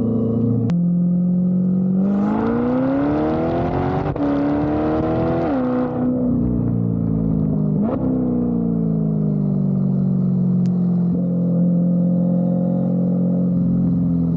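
C8 Corvette Stingray's 6.2-litre LT2 V8 through a center-exit track exhaust: idling, then revved up in a rising pull of about three seconds, dropping back, given a short sharp blip about eight seconds in, and settling slowly back to a steady idle.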